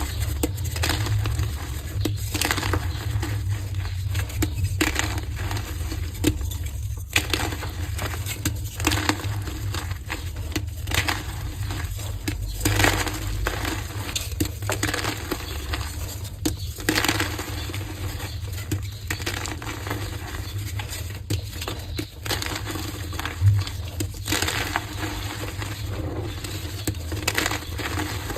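Heart-shaped gym chalk pieces being crushed and crumbled, a run of irregular crunches one after another, with a steady low hum underneath.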